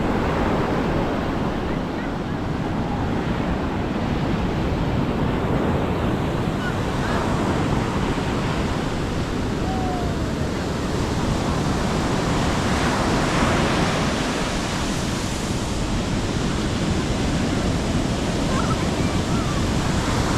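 Sea surf washing onto the beach as a steady roar of breaking waves, with wind on the microphone; a wave swells louder about two-thirds of the way in and again near the end.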